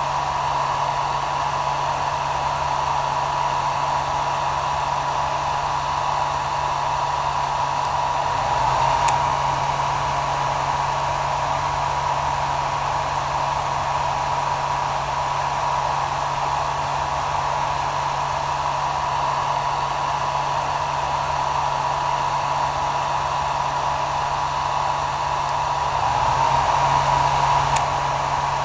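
Hair dryer running steadily: a continuous rush of blown air with a low motor hum and a steady whine. It swells slightly twice, about eight seconds in and near the end.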